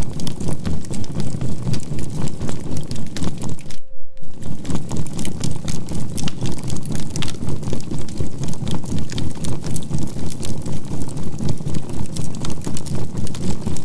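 Campfire of burning charcoal crackling with many small pops, mixed with a steady 528 Hz tone and a low binaural-beat hum that throbs about four times a second. About four seconds in, everything but the tone cuts out for about half a second.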